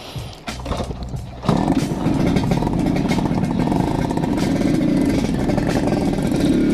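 A few light clicks and knocks, then about a second and a half in a Yamaha RX-King's two-stroke single-cylinder engine comes in suddenly, loud and steady.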